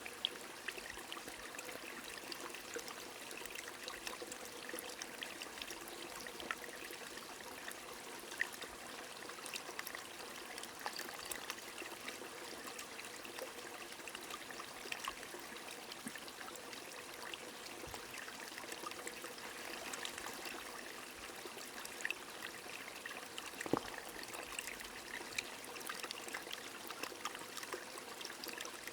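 Small stream trickling steadily, with raindrops pattering as many small, irregular ticks. One louder drop lands near the end.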